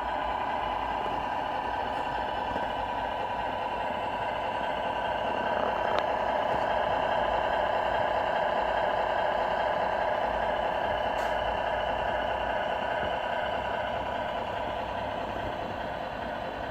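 Radio-controlled Scania R470 model truck running: a steady, even hum that swells slightly around the middle and then eases off.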